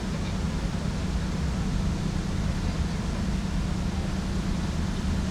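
Steady night-time lakeside ambience: an even rushing like water from a fountain, with a low hum beneath it.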